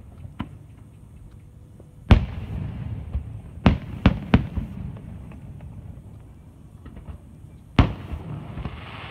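Aerial firework shells bursting: a sharp bang about two seconds in, three more in quick succession around four seconds, and another near the end, with small crackles and a low rumble between them.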